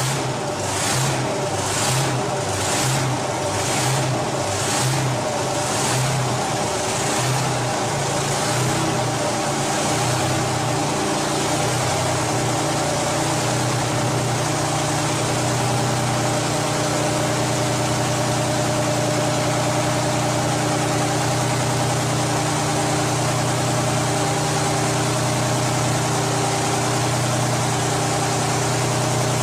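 Detroit Diesel V12 engine running. For the first several seconds it pulses evenly about twice a second, then it smooths into a steady run.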